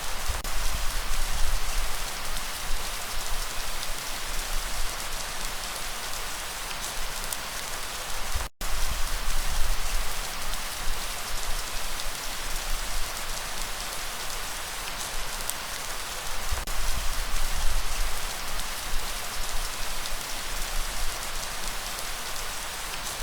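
Steady rain, a dense hiss of drops with a low rumble underneath and scattered separate drop ticks. The sound cuts out completely for an instant about eight and a half seconds in.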